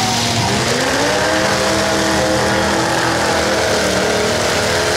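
Several demolition derby cars' engines running loudly together, one revving up about half a second in, then holding steady.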